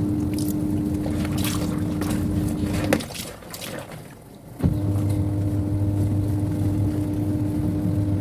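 Semi-automatic twin-tub washing machine's wash-tub motor running with a steady hum over churning water. It stops about three seconds in and starts again a second and a half later, in the run-pause-run pattern of the pulsator during a rinse.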